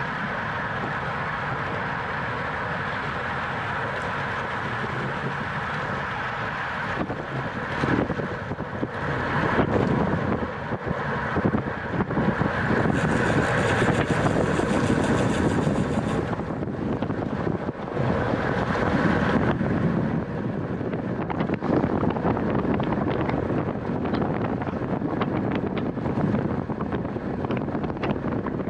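Wind rushing over the microphone of a camera riding along in a road bicycle race, steady at first, then louder and gustier from about seven seconds in.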